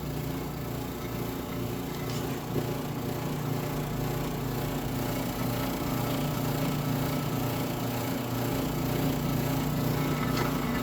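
Dexter commercial dryer's drive motor and belt running with a steady hum. It still makes an unwanted noise, a sign that the freshly refitted drive needs adjusting.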